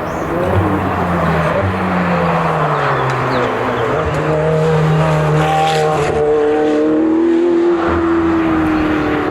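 Racing car engine running hard under load, its pitch rising, dropping and climbing again several times as it changes gear.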